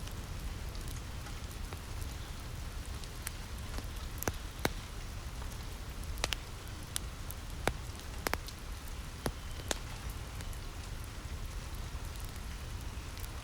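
Steady rain falling on a roof, with a handful of sharp crackles and pops from a wood fire scattered through the middle.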